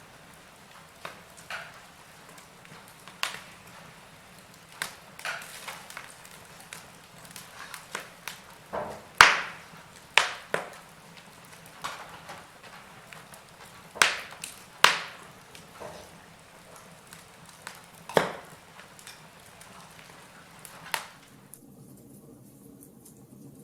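Wood fire crackling in a fireplace: irregular sharp pops and snaps of burning logs over a low hiss, the loudest pops about nine and fifteen seconds in. The pops stop near the end.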